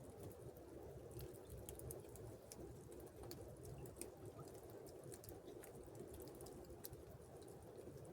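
Faint, steady wash of flowing river water with many scattered small ticks and drips.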